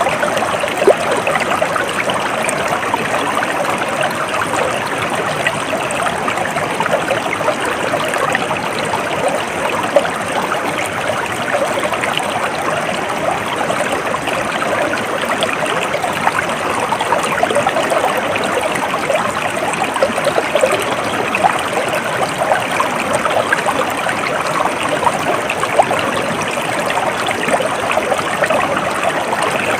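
Stream water flowing and babbling steadily over stones, a continuous splashing trickle without pause.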